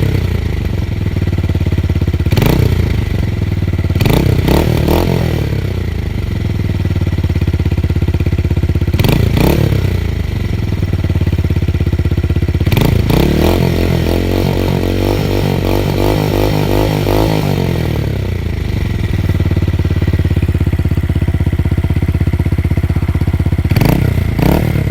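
Yamaha motorcycle's exhaust at idle, blipped with short, sharp throttle revs several times. About halfway through, a longer rev is held for several seconds before the engine note falls back to idle.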